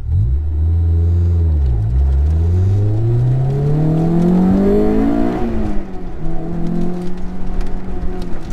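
Honda S2000's four-cylinder engine launching hard off the start line of an autocross run: the revs leap up at once, dip briefly with an upshift about two seconds in, then climb steadily for three seconds. About five seconds in, the revs drop and the engine runs at a lower, uneven note under part throttle.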